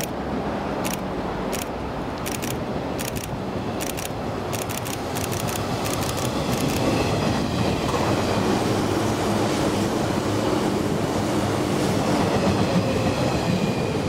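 JR 485-series electric train passing through a station at speed: wheels clicking over rail joints, mostly in quick pairs, for the first half, then a steady rumble of the cars going by with a faint high whine.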